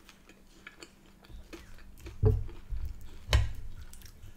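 Chewing of chips with small wet mouth clicks, broken by two dull knocks about two and three seconds in.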